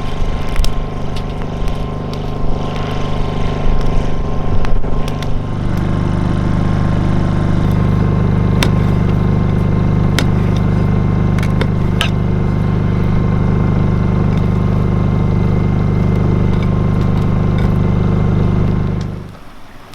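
A steady, loud low mechanical hum, like a running engine, that swells about six seconds in and cuts off suddenly near the end, with a few sharp clicks over it.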